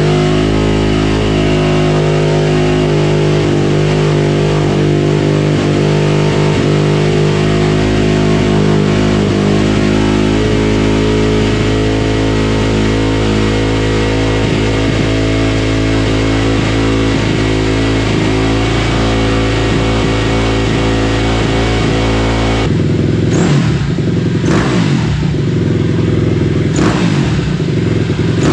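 KTM 250 SX-F dirt bike's single-cylinder four-stroke engine running at a steady idle after a fresh top-end rebuild, then revved up and down several times over the last few seconds.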